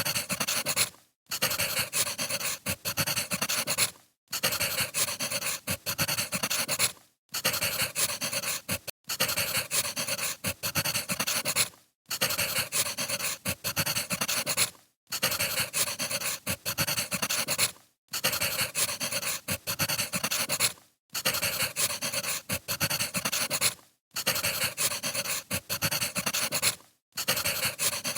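Crackling wood fire, a short recording played in a loop: the same crackle repeats about every three seconds, with a brief dropout to silence between repeats.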